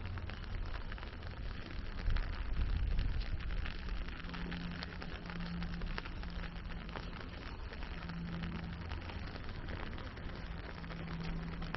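Steady rain pattering, a dense spread of fine irregular ticks, with a low wind rumble on the microphone that swells about two seconds in.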